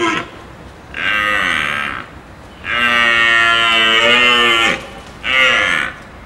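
An animal calling: drawn-out, moo-like calls. One trails off and drops in pitch at the start, then three more follow, the longest about two seconds.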